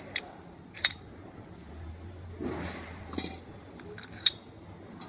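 Steel differential parts and tools clinking against each other during repair work: about five sharp, ringing clinks, the loudest near the start and about four seconds in, with a brief scraping shuffle in the middle.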